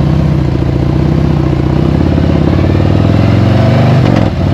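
Harley-Davidson V-twin motorcycle engine running under way, its revs climbing from about halfway through, then dropping sharply just past four seconds before it pulls again.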